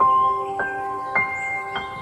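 Ambient background music: a rising run of four struck, bell-like notes about half a second apart, each left ringing over the others.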